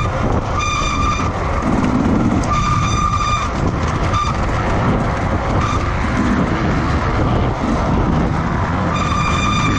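Racing motorcycle engines running at high revs on track, a steady loud mechanical din. A high steady tone with overtones cuts in and out about five times over it.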